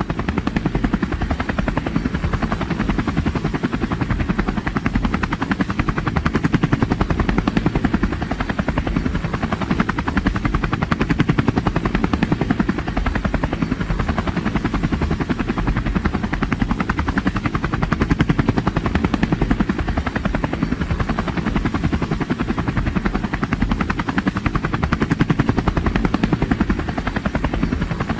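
Steady, fast-pulsing rotor noise from a rotor aircraft running at constant speed, with no change in pitch or level.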